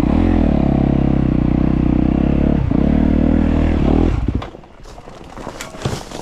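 Dirt bike engine revved hard and held at high revs for about four seconds, with a couple of brief dips, then dropping away suddenly. A few clattering knocks follow near the end.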